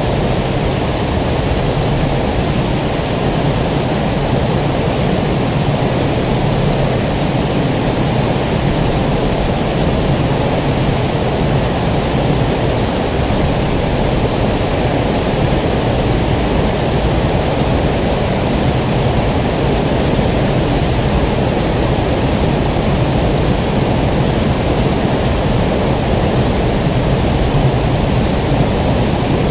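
Steady rush of running water, an even, unbroken noise strongest in the low range.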